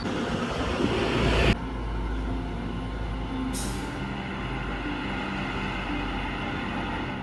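A large motor vehicle running with a steady low rumble, with a loud hiss over the first second and a half that cuts off suddenly. Background music plays throughout.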